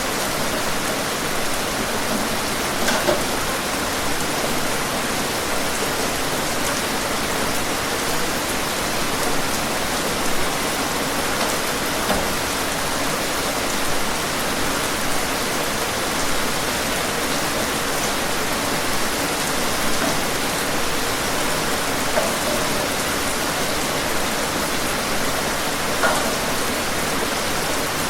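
Steady heavy rain hissing evenly, with a few louder single drops ticking out every few seconds.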